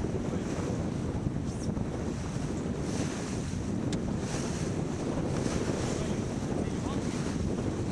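Wind buffeting the microphone over the wash of water along a sailing boat's hull as it sails, with surges of splashing hiss now and then.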